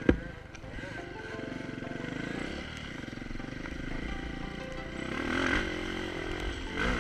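KTM EXC 530 enduro motorcycle's single-cylinder four-stroke engine running off-road, its revs rising and falling, louder about five and a half seconds in and again near the end. A single sharp thump just after the start is the loudest sound.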